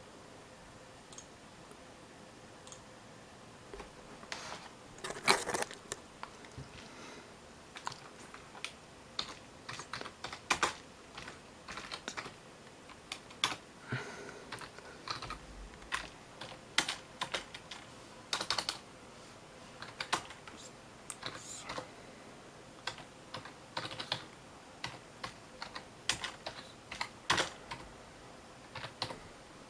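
Typing on a computer keyboard: irregular key clicks, singly and in quick runs, starting about four seconds in, with a faint steady hum underneath.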